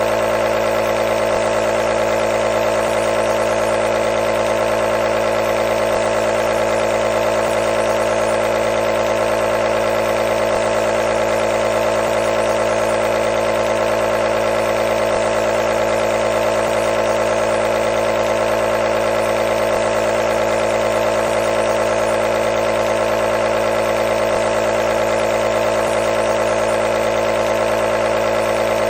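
Nebulizer compressor running steadily, a constant mechanical hum with a strong mid-pitched tone and no change in pitch or level.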